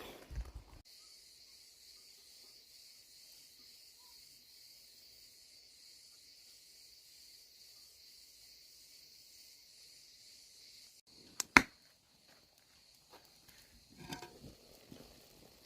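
Insects chirring steadily in the background, with a single sharp click about eleven and a half seconds in and some brief rustling a little later.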